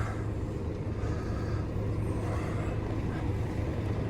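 Truck engine running with a steady low hum, with road noise, while the truck drives off.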